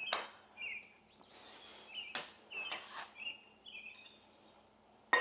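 A bird chirping in short, high notes about every half second, with a few sharp clicks mixed in.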